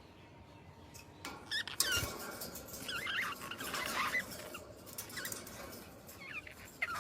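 Small birds chirping and twittering in quick, squeaky calls, with a couple of sharp clicks about two seconds in.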